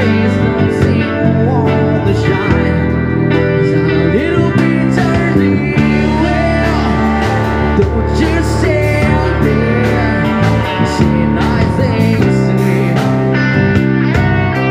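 Live rock band playing: electric guitar lines with frequent string bends over bass and drums, with a steady drum beat.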